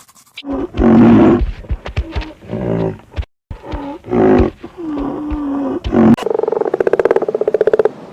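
Animal calls: several loud, pitched cries that bend in pitch, then a fast, evenly pulsed rattling trill from about six seconds in.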